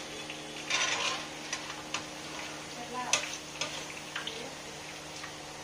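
Boondi sizzling as it fries in oil in a kadai while a perforated ladle stirs it, with a steady hiss and a few sharp clinks of the ladle against the pan, the loudest about a second and about three seconds in.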